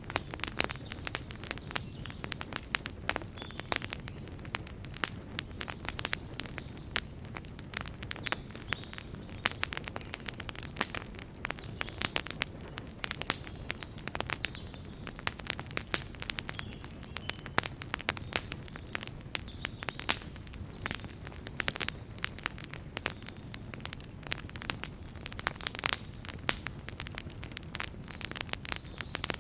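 Wood campfire burning, with many sharp crackles and pops over a low steady rumble of the flames.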